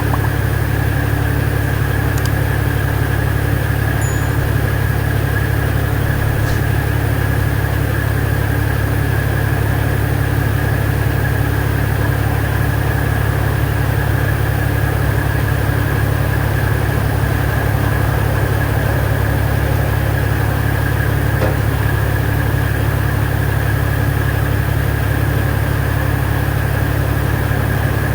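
Diesel semi-truck engine idling steadily.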